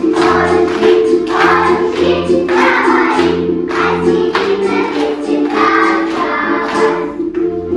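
A group of young children singing a Russian folk song in unison over an instrumental accompaniment with sustained chords and a regularly pulsing bass.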